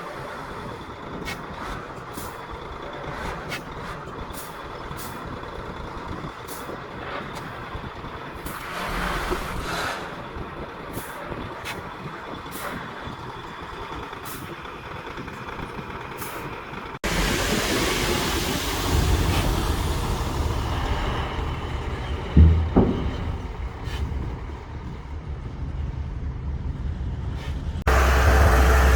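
Diesel engines of heavy earthmoving machines, bulldozer and dump truck, running at work. The engine noise grows abruptly louder and deeper a little past halfway, with a sharp clank about two-thirds of the way in.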